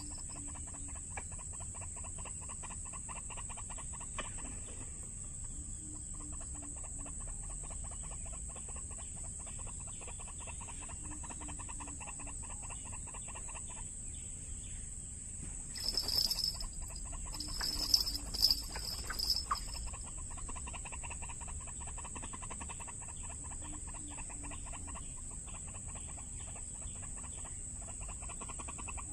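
White-breasted waterhen calls: long runs of rapid repeated clucking notes over a steady high whine, with a louder, busier stretch a little past the middle.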